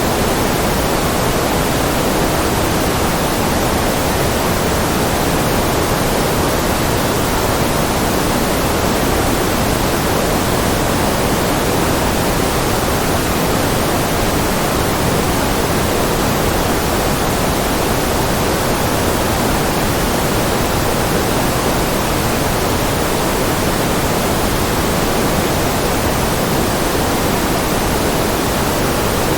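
Steady, unbroken white noise: an even hiss with no tones or events, weighted slightly toward the lower middle like pink noise.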